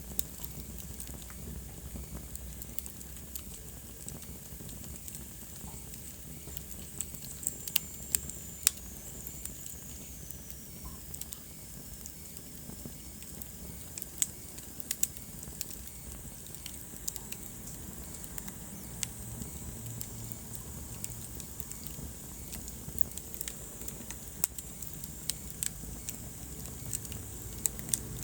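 Wood fire crackling in a fireplace: scattered sharp pops and snaps over a steady low rumble of burning, with a faint high whistle that slides down in pitch about a third of the way in.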